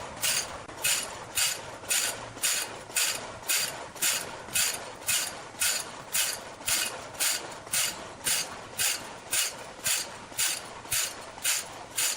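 A machine running with an even rhythm of short, hissing strokes, about two a second, steady throughout.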